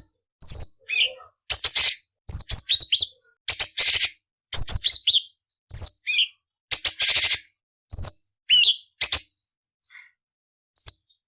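Orange-bellied leafbird (cucak cungkok) singing in short, rapid phrases: sharp downward-sliding whistles mixed with harsh, scratchy chattering bursts, with brief gaps between phrases. The phrases become sparser and fainter near the end.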